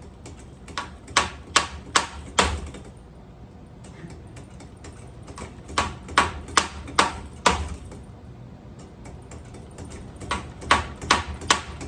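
A ceiling fan being smashed: three runs of sharp strikes, about three a second, with pauses of a few seconds between them.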